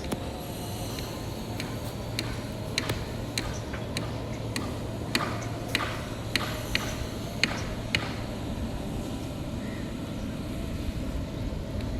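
About a dozen sharp, irregular clicks, most between about a second and eight seconds in, over a steady low rumble.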